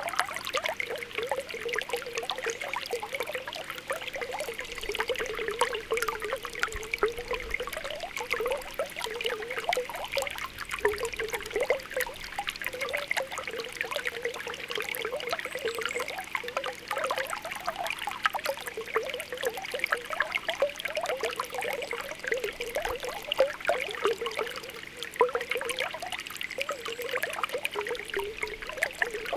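Spring water welling up from the ground with continuous small popping and bubbling gurgles.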